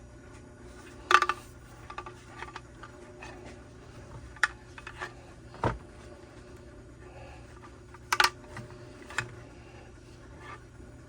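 Scattered clicks and clacks of small tools and plastic trimmer parts being handled on a workbench, with two sharper clacks, about a second in and near eight seconds, and a duller knock around the middle.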